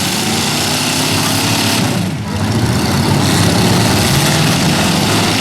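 Several pickup truck engines running loudly at once, overlapping, with a brief dip about two seconds in.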